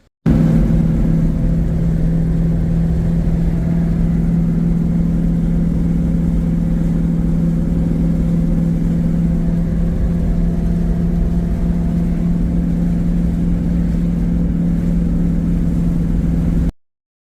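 1968 Pontiac Firebird's engine running at a steady speed, with a constant pitch that does not rise or fall. It starts abruptly and cuts off abruptly near the end.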